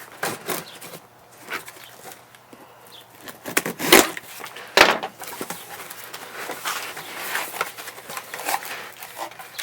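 A parcel of parts being opened by hand: crackly rustling and tearing of packaging, with two sharp knocks about four and five seconds in.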